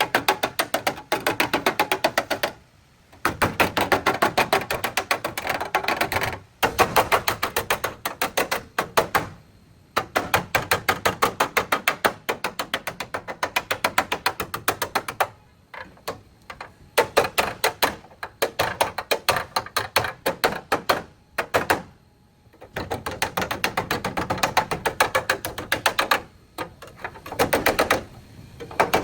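Rapid light hammer taps on car-body sheet metal, several a second, in runs of a few seconds broken by short pauses.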